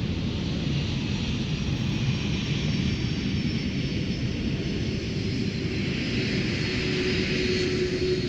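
Jet airliner's turbofan engines running steadily, a broad rushing noise with a thin high whine over it; a low steady tone comes up in the second half.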